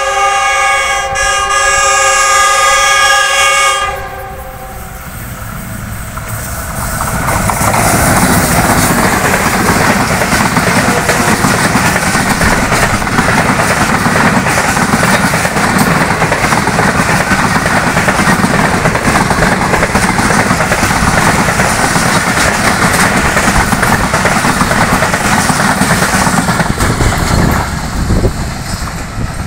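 An express train's diesel locomotive sounding a long horn that stops about four seconds in, followed by the train running through the station at speed: a loud, steady rush and clatter of wheels and coaches on the rails for about twenty seconds, dying away near the end.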